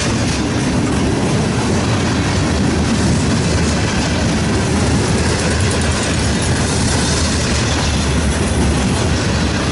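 Open-top hopper cars of a freight train rolling past close by: a steady rumble of steel wheels on the rails.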